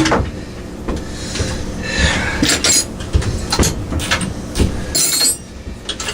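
Metal clinking and knocking of hand tools and bolts while parts are taken off a mini bike's front end, irregular taps and clanks with a short rasping scrape about five seconds in.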